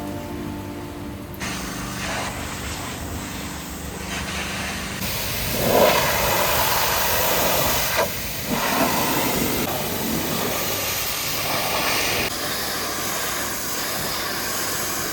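High-pressure washer jet spraying onto a truck, a steady hiss that grows louder about a third of the way in and cuts out for a moment a few seconds later.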